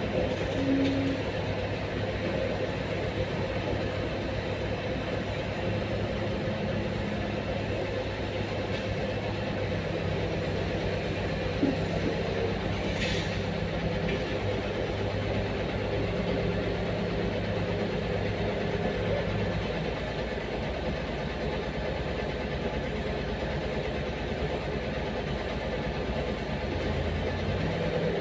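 Heavy truck diesel engine running steadily, its pitch shifting slightly now and then, with one sharp knock about twelve seconds in.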